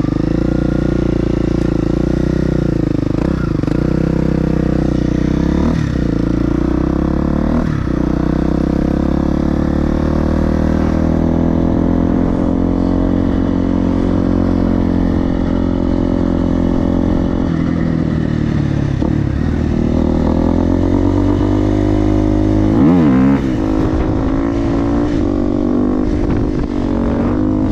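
Supermoto motorcycle with an FMF exhaust being ridden, the engine running loud and steady, its pitch rising and falling with the throttle and dipping sharply and recovering several times, with a louder burst near the end.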